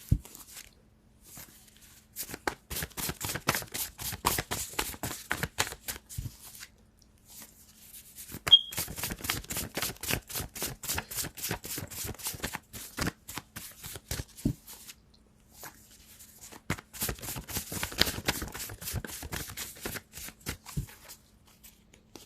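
A deck of tarot cards being shuffled by hand: three bouts of rapid card flicking and riffling, with short pauses between them.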